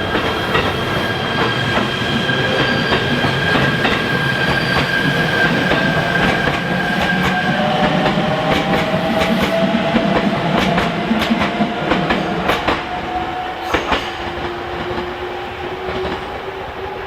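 A train moving through the station, its wheels clicking rhythmically over the rail joints, with a drawn-out whine that slowly rises in pitch over the second half.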